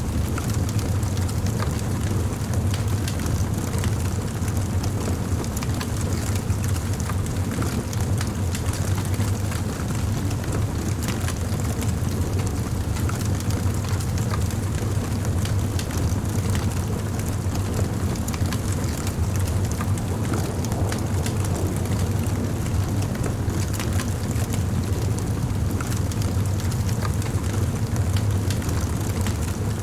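Bonfire burning: a steady low rumble of flame with frequent small crackles and pops scattered throughout.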